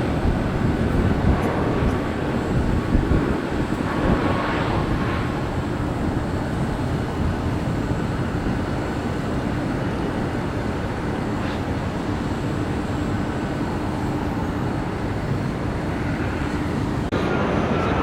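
Jet airliner engine noise: a steady, deep rumble with a faint hum. The sound jumps louder abruptly near the end.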